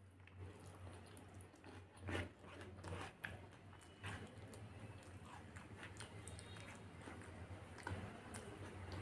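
A person chewing a mouthful of chicken stir-fry eaten by hand, with faint, irregular wet clicks and crunches, over a low steady hum.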